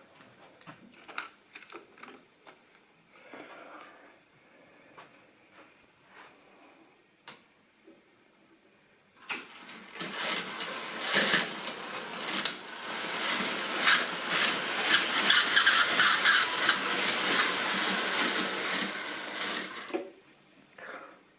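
Model railway train running on the track: scattered faint clicks at first, then about nine seconds in a loud, busy rattle of wheels clicking over the rail joints as the train runs close by. It stops suddenly near the end.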